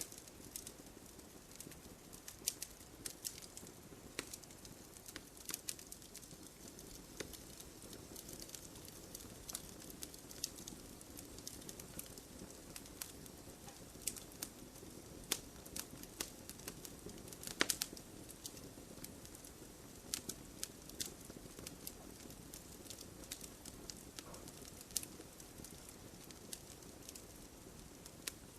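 Wood fire crackling: scattered sharp pops and snaps over a low, steady rush of burning, with one louder pop a little past the middle.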